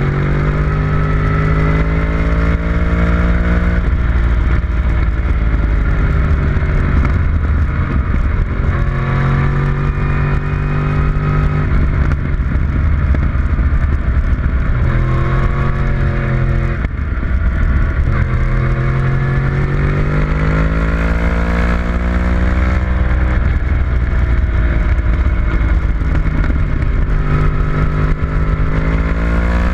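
A vehicle engine at racing speed on a track, pulling hard with its pitch rising through each gear, then dropping back on shifts and braking. The cycle repeats several times over the stretch, over a steady rush of wind and road noise.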